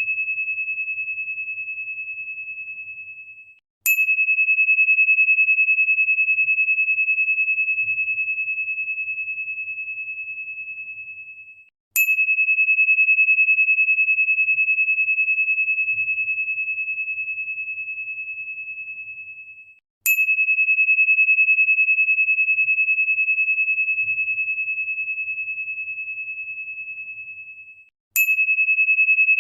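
A single high, pure crystal tone, struck about every eight seconds. Each strike gives a short bright attack, then one steady note that rings on and slowly fades before the next strike.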